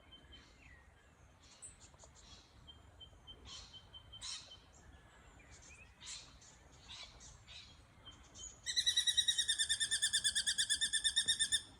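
Scattered faint bird calls, then about three-quarters of the way in a loud, rapid, chattering alarm call from the bird that has just swooped, about three seconds long and stopping abruptly. A faint steady high tone comes and goes underneath.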